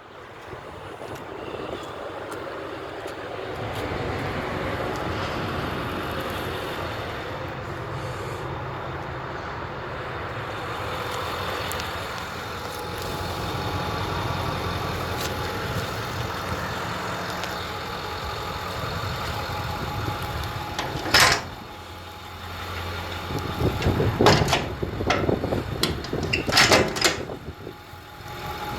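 2010 Ford F-550 Super Duty service truck's engine idling steadily. It is broken by one sharp clunk about three-quarters of the way through and a cluster of louder bangs and rattles near the end.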